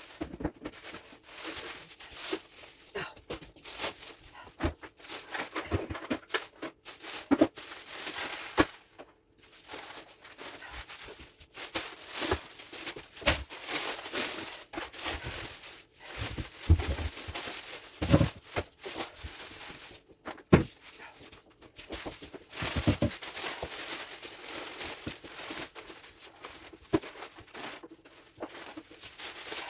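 Groceries being handled and put away: plastic bags crinkling and rustling, with irregular light knocks and clunks as items are set down.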